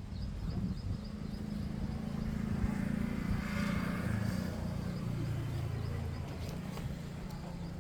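A motor vehicle's engine running nearby over a steady low drone, swelling toward the middle and fading away. A few light clicks near the end.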